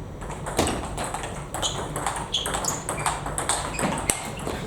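Table tennis rally: a celluloid-type ball clicking sharply off bats and table in an irregular run of hits, roughly two or three a second, with one especially loud hit near the end.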